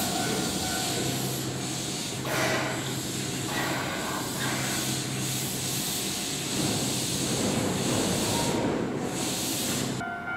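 Keihan electric train at a station: a continuous hiss of air mixed with rail and running noise, over a faint low steady hum, swelling a few times. It cuts off suddenly just before the end.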